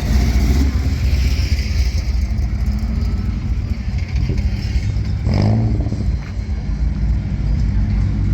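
Car engines running with a deep, steady rumble. About five seconds in, one engine's pitch briefly rises as it revs.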